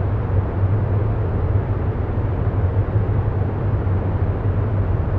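Steady low rumbling noise with a hiss above it, unchanging throughout: a continuous ambient background bed that also runs under the voice.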